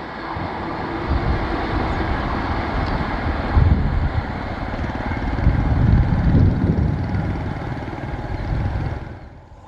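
Passenger train rushing past at speed: a steady rush of wheels on rail and wind, with low rumbling swells, dropping away sharply near the end.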